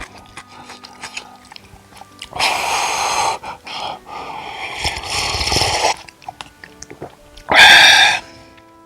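Loud slurping of cup noodles three times, the middle slurp the longest at about two seconds, with small clicks and chewing sounds between.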